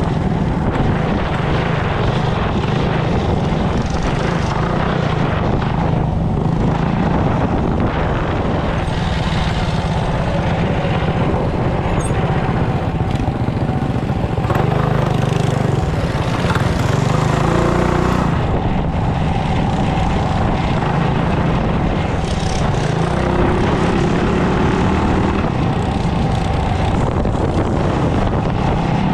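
Mini bike's small engine running steadily under way, its drone holding without clear revs or stops.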